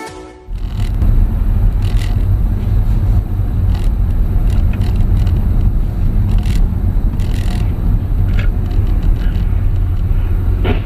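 Steady low rumble of a car driving, starting about half a second in, with occasional light knocks.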